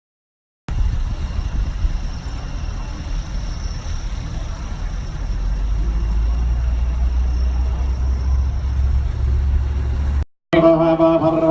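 A steady low rumble of a motor vehicle running. It starts abruptly a moment in and cuts off near the end.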